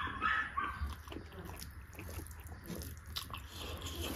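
Close-miked chewing and mouth smacks of a person eating beef curry: a string of short, irregular wet clicks over a steady low hum.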